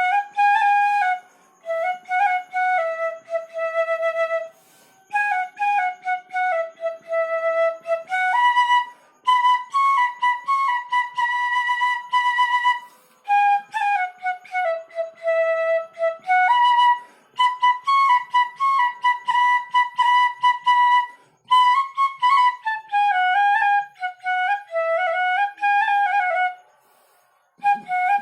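Solo bansuri (Indian bamboo flute) playing a Hindi film song melody, one line of notes in phrases with short breath pauses between them.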